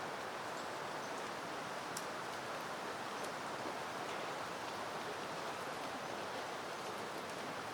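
Steady wind rustling through peony plants, an even hiss of moving foliage, with a faint tick about two seconds in.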